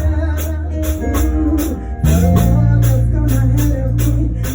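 Lively church praise band music: a heavy bass line under a wavering melody, with a crisp percussion beat about three to four strokes a second. The bass grows fuller about two seconds in.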